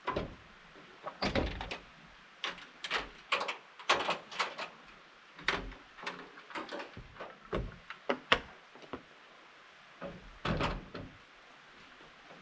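Irregular knocks, clicks and clatter of things being handled, with a dozen or so short sharp strikes and no steady sound between them.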